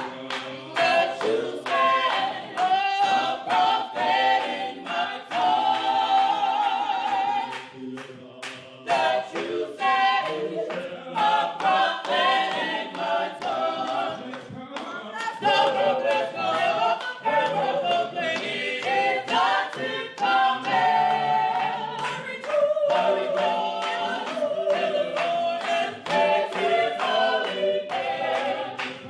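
A cappella gospel choir singing, several voices holding wavering sung lines without instruments, with sharp hand claps through the singing.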